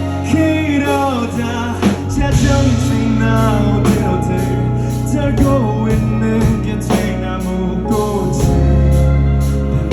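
A live band playing a rock song: a sung melody over drum kit, bass and guitar.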